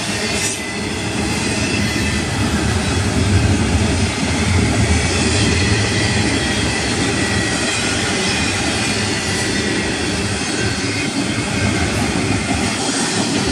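Double-stack intermodal well cars rolling past on the rails: a steady, loud rumble and rattle of steel wheels on track, with a faint high wheel squeal.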